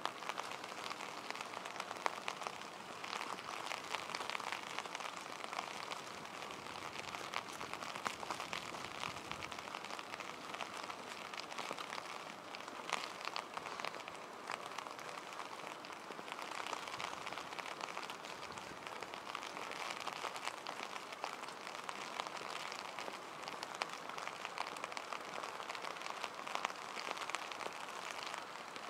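Steady rain falling on wet city streets: a constant hiss peppered with many small, close drop ticks.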